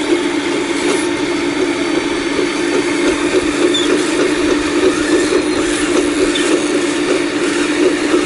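Full-size excavator running steadily under load while digging, with a few short high squeaks of metal.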